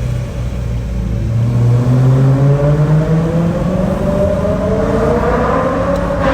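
Naturally aspirated V8 of a 2009 BMW E93 M3 through an aftermarket Zen-Rage exhaust, accelerating, its note climbing steadily in pitch over several seconds. There is a sharp break in the sound near the end.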